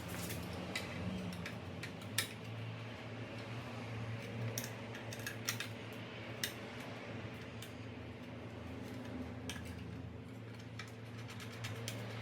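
Irregular light clicks and small metallic clatter from hand tools and parts being handled during bench work, over a low steady hum. The sharpest click comes about two seconds in, and a cluster follows in the middle.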